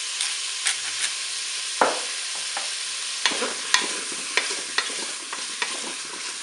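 Beef meatballs and courgette pieces sizzling in butter in a Cookeo multicooker's bowl on its browning setting, with a wooden spoon knocking and scraping against the bowl as the food is stirred. The sharp spoon knocks come more often from about three seconds in.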